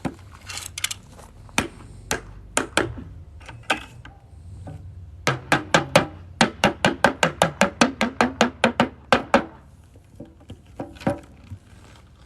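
Hard knocks and taps: a few single knocks, then a quick run of about five knocks a second for some four seconds, then one or two more near the end.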